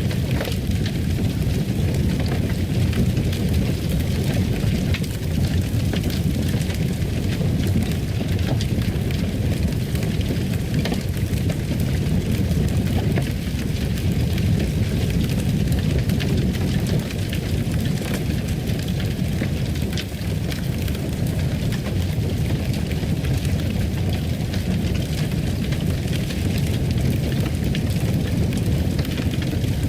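Fire burning in a fireplace: a steady low rumble with faint, scattered crackles.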